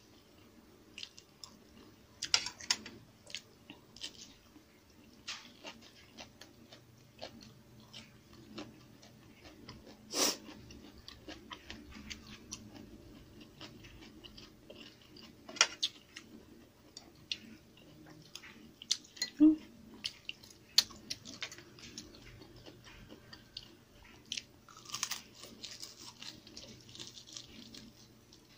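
A person chewing and crunching fried pork belly with rice, with small wet mouth clicks in scattered short bursts. The sharpest crunch comes about ten seconds in.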